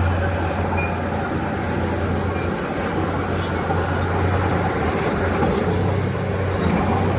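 Komatsu D31P bulldozer's diesel engine running under work with a steady low drone and mechanical clatter, easing briefly about two and a half seconds in and again near the end.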